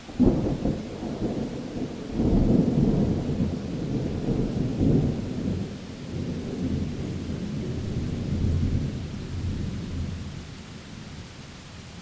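Thunder over steady rain: a sudden crack just after the start, a second louder peal about two seconds in, then deep rumbling that dies away over the last few seconds.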